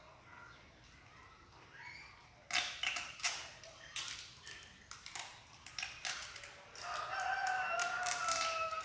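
Irregular clicks and crackles of tape and a plastic card being handled, and near the end a long, slightly falling call from a rooster crowing.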